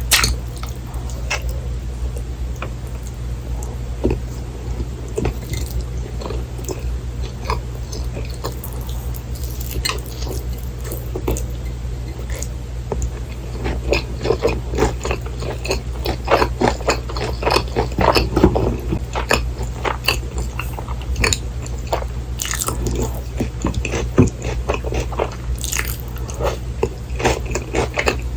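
Close-miked eating of a fried cheese pork cutlet and rice: irregular bites, crunches of the fried breading and wet chewing, over a steady low hum.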